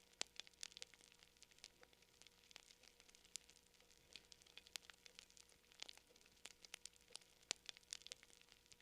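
Wood campfire crackling: irregular sharp pops and snaps, several a second, some louder than others, over a faint soft hiss.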